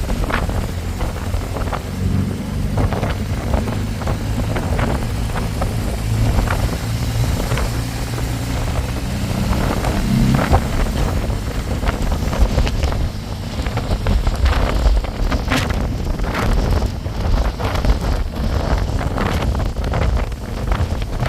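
Heavy wind buffeting the microphone on a moving motorbike, with the engine's drone underneath. The engine hum stands out more in the first half.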